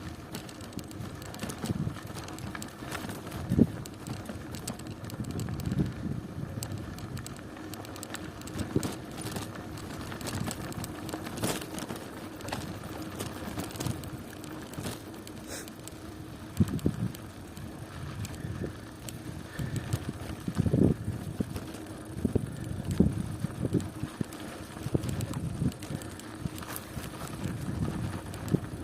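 A bicycle being ridden: steady tyre and riding noise with frequent irregular knocks and rattles, and a faint steady hum.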